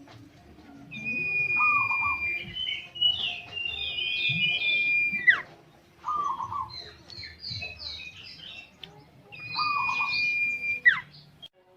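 A songbird singing loud, repeated whistled phrases, three times over. Each phrase is a long steady whistle with quick short notes above it, ending in a sharp falling note. It is the kind of lively song played as a lure call for other birds.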